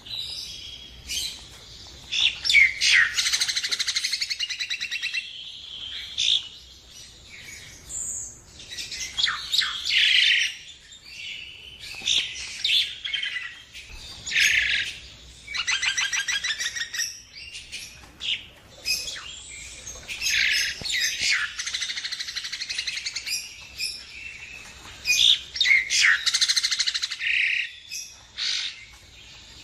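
Nias hill myna singing a long run of loud phrases: rapid rattling trills, chatters and whistles, broken by short pauses.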